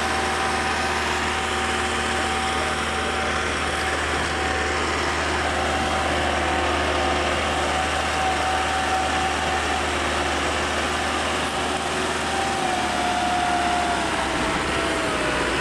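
Massey Ferguson 375 tractor's diesel engine running steadily under load while pulling a heavily loaded trolley, with a high whine that dips slightly in pitch near the end.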